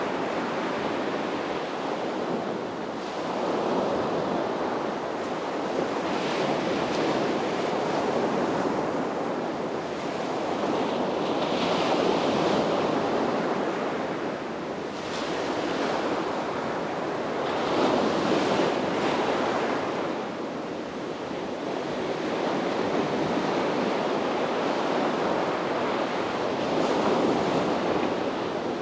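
Sea waves breaking and washing up a beach, swelling and easing every few seconds, with some wind on the microphone.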